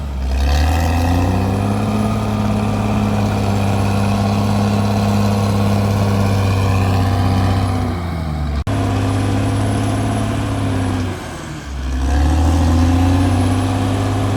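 CAT D6R bulldozer's diesel engine working under load, its pitch rising about a second in and holding steady. There is a sharp break about eight and a half seconds in, and the engine drops off briefly around eleven seconds in before picking up again.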